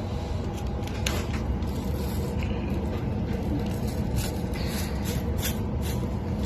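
Passenger train running along the track, heard from inside the carriage: a steady low rumble with scattered clicks and brief hissing squeaks from the wheels and rails.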